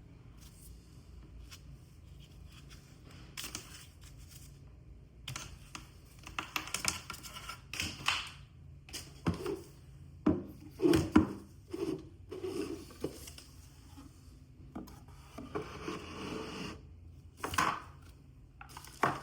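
Handling noises from unboxing: irregular rustling, scraping and sharp clicks of the box and packaging being handled, starting about five seconds in and loudest about halfway through.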